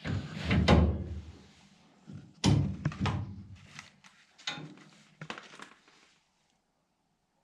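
Several heavy thunks and clattering knocks of hard objects being handled. The loudest come near the start and about two and a half seconds in, with smaller knocks a couple of seconds later, and the sound cuts off abruptly about six seconds in.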